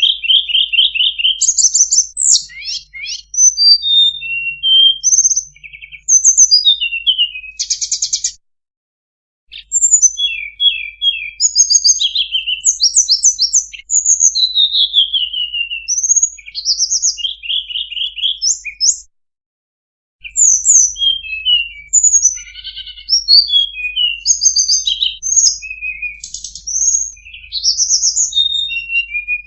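Recorded tledekan song played as a bird lure: loud, high, rapid trills and quick chattering whistled phrases. It cuts out to silence twice for about a second.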